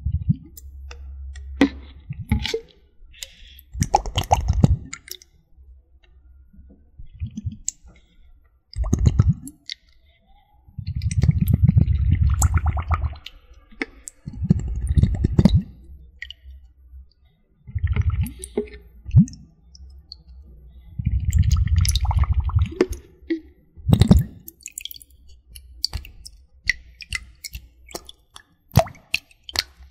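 Close-up water sounds, with water sloshing and plopping in a series of bursts a second or two long, and small wet clicks between them.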